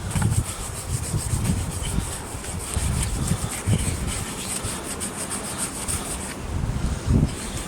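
Cloth damp with Rubio Monocoat cleaner being rubbed back and forth over an old wooden figure in repeated scrubbing strokes, lifting dust and grease from the wood.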